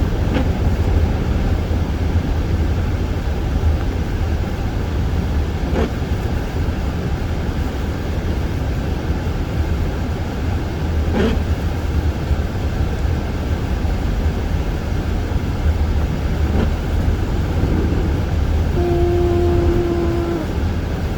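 Car driving through deep unplowed snow: steady low road and tyre rumble with the underbody scraping over the packed snow, and a few faint knocks several seconds apart. A brief steady tone sounds for about a second and a half near the end.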